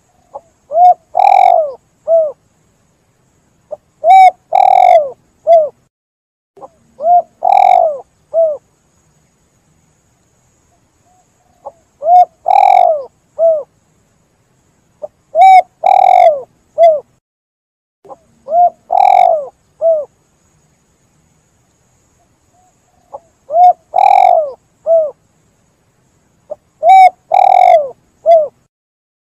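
Spotted dove (tekukur) singing its cooing song: eight three-note phrases, a short coo, a longer coo and a short coo, repeated about every three seconds with silent gaps between them and two longer pauses.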